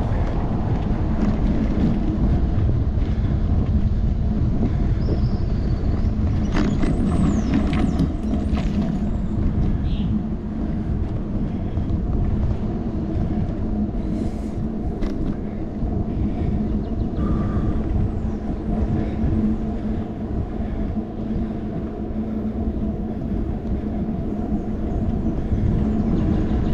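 Wind buffeting the microphone of a handlebar-mounted action camera as a bicycle rolls along, under a steady low hum. A few faint, brief high-pitched chirps and squeaks come and go about a quarter of the way in.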